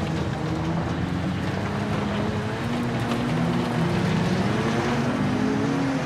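A stock car's engine running hard, heard from inside the stripped cabin, its pitch rising and falling as the driver works the throttle. A steady rush of wind and tyre noise from the dirt track runs under it.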